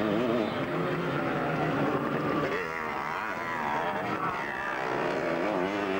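Several vintage twinshock 250cc motocross motorcycles racing together, their engines revving up and down with overlapping, constantly changing pitches.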